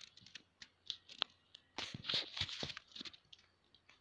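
Faint, irregular crackling and popping of a ghee-spread dosa cooking on a hot tawa under a domed aluminium lid.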